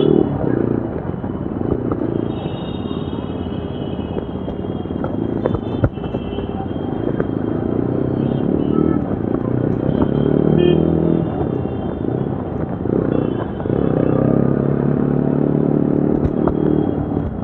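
Yezdi Adventure's single-cylinder engine and exhaust while riding, the engine note climbing and easing off with the throttle several times.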